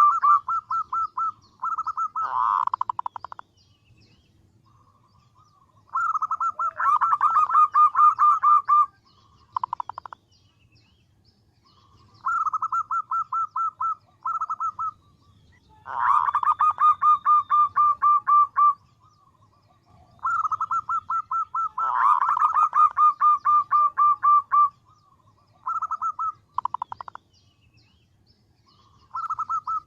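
Female zebra dove calling for a male: runs of rapid, evenly spaced short notes, each run lasting one to three seconds, repeated after short pauses.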